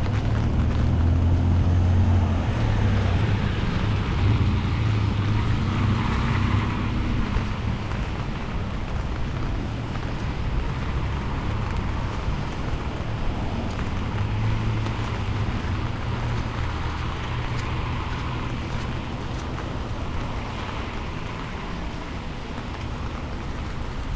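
Rain falling on a city street while cars go by on the wet road, their engines humming and tyres hissing. Two louder passes come at the start and again about midway through.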